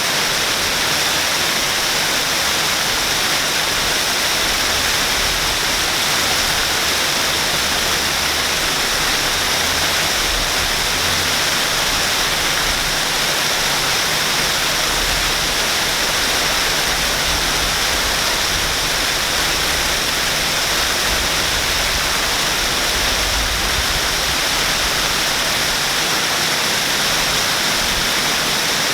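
Waterfall: a steady, unbroken hiss and splash of falling water.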